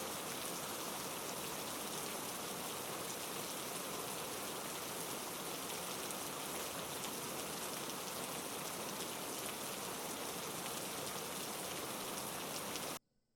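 Heavy rain falling steadily, a dense even hiss with fine drop ticks, cutting off abruptly near the end.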